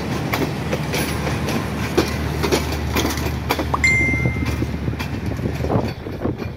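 Passenger coaches of a departing train rolling slowly past, their wheels clicking over the rail joints above a steady low hum. A short high squeal sounds about four seconds in. The hum drops away near the end as the last coach goes by.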